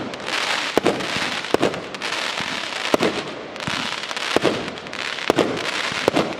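144-shot, 1-inch (26 mm) consumer fireworks cake firing its shots in sequence: sharp reports about once a second over a continuous noisy hiss.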